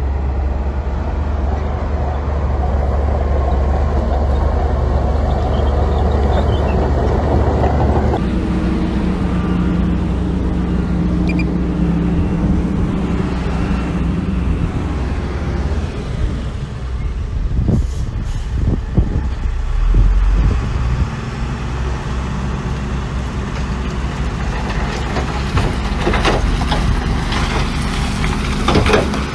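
Heavy earthmoving machinery: the diesel engines of dump trucks and a bulldozer running steadily. The sound shifts about eight seconds in, there are a few knocks around the middle, and there is some crackling near the end.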